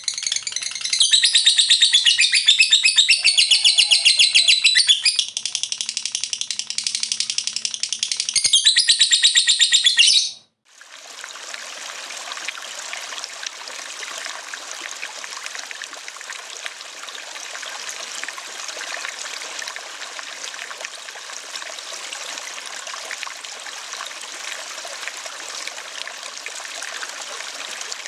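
A lovebird chattering in long, rapid trills (the 'ngekek' song) stops suddenly about ten seconds in. A steady sound of running water follows.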